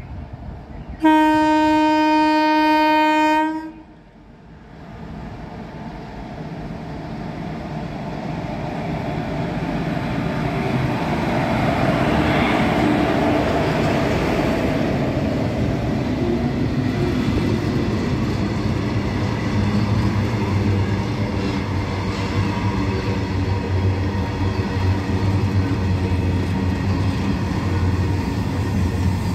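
A WAG-7 electric locomotive's horn sounds one loud, steady blast of about two and a half seconds and cuts off sharply. Then a double-headed electric freight train runs past. Its rumble builds and peaks about halfway through as the locomotives go by. It settles into the steady rolling and rail clatter of the covered goods wagons.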